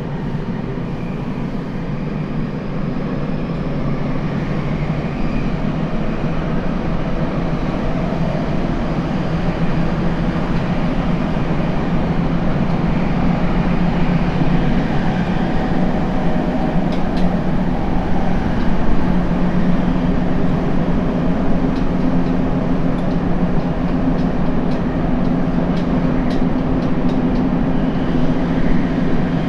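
Tokyo Metro 7000-series subway train running, its Hitachi IGBT inverter and traction motors driving it. The running noise grows steadily louder over the first half as the train picks up speed, with faint rising tones early on and a few light clicks later.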